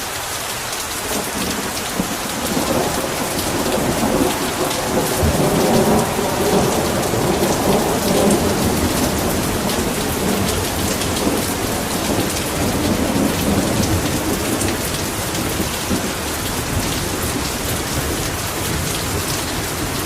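Heavy rain falling steadily, with a long roll of thunder that swells from about two seconds in, is loudest midway, and dies away before the end.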